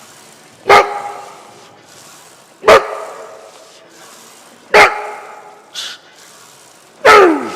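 A dog barking loudly four times, about two seconds apart; the last bark drops in pitch.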